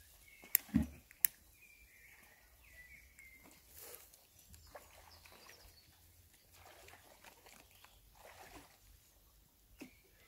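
Faint outdoor ambience with small birds chirping briefly. About half a second in come two sharp clicks and a low thump.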